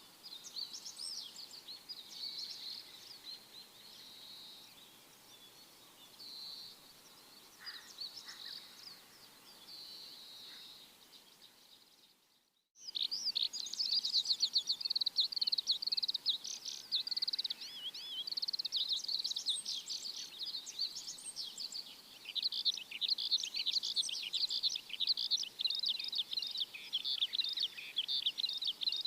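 A chorus of small birds chirping and twittering in quick high notes. The sound drops out completely for a moment a little under halfway through, then comes back louder and denser.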